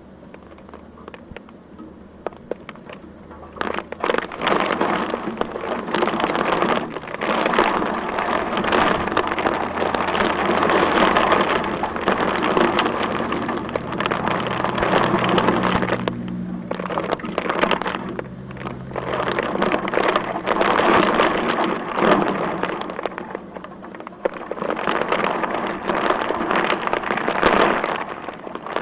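Heavy rain pelting down on hard surfaces. It grows much louder about four seconds in, then swells and eases in gusty waves. A low steady hum runs underneath through the middle stretch.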